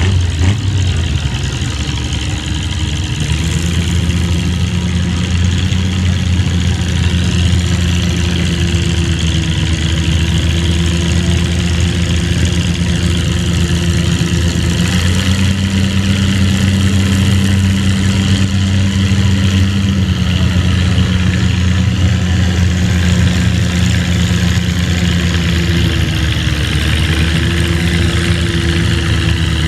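Antique farm tractor engine running loud and steady. Its pitch steps up slightly a few seconds in, again about halfway, and dips a little near the end.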